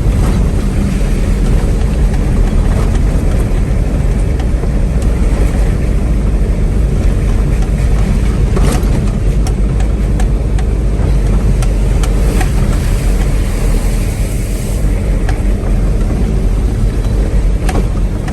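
1985 Toyota Hilux with its 22RE four-cylinder engine driving, a steady low engine and road noise, with a few short clicks or rattles.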